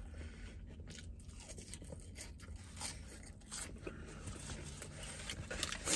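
A person chewing a mouthful of hamburger close to the microphone: a run of small, irregular mouth clicks and soft crunches.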